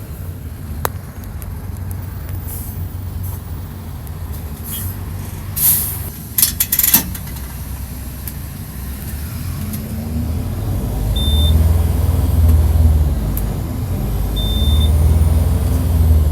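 Mercedes-Benz OF-1722 bus's diesel engine, heard close up, running under way, with a few sharp bursts of air-brake hiss about six seconds in. In the second half the engine pulls harder and louder in surges, and two short high beeps sound.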